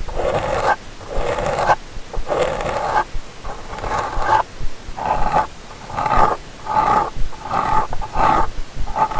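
Close-up ear-cleaning strokes scraping inside a binaural microphone's ear: a rasping, rumbling scrape repeated about once a second, each stroke under a second long.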